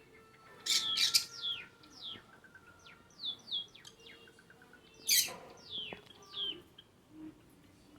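Pet lovebirds chirping: a string of short, sharp calls that slide down in pitch, with the loudest calls about a second in and again around five seconds in.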